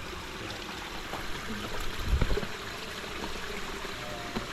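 Steady rushing of water, with a brief low thump about two seconds in.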